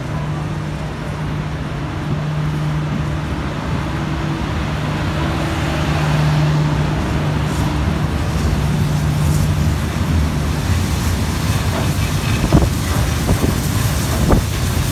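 Heritage steam train rolling slowly past at a platform, its carriages and wagons running by with a steady low hum and rumble that grows a little louder. The hum stops about two thirds of the way through, and a few sharp metallic clanks come in the last seconds as the steam locomotive draws level.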